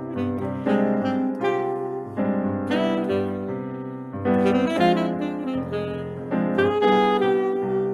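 Saxophone and piano playing Brazilian music live, the piano striking chords over and over. A long held note sounds near the end.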